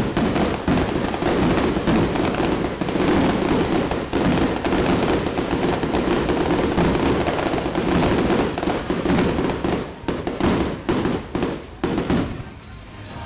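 Aerial fireworks going off in a dense rapid barrage of bangs and crackle, a finale-style volley, thinning to a few separate bursts about ten seconds in before dying down near the end.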